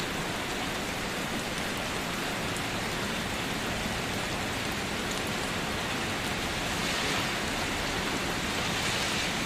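Heavy rain falling steadily, a dense even hiss with scattered drop ticks, growing slightly stronger about seven seconds in.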